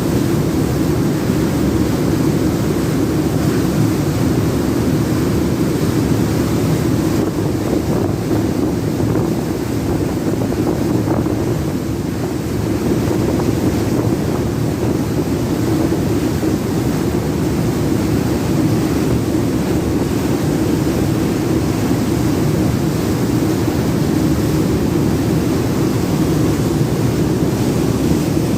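Fast ferry's twin waterjet propulsion running under way: a steady, loud rumble mixed with rushing water and wind.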